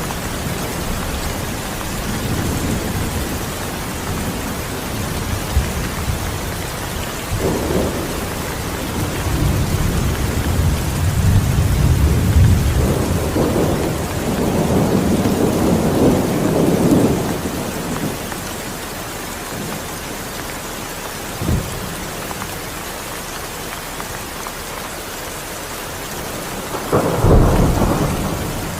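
Steady heavy rain with rolling thunder: low rumbles swell and fade through the middle, a short sharp crack comes about two-thirds in, and a loud close thunderclap sounds near the end.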